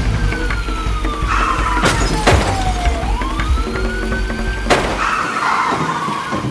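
Police siren wailing, its pitch rising quickly and falling slowly in a cycle of about three seconds, over background music, with a couple of sharp crash-like noises.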